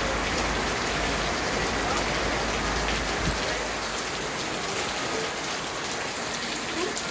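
Steady rain falling: a dense hiss of drops with scattered single drop ticks. A low rumble underneath drops away about three seconds in.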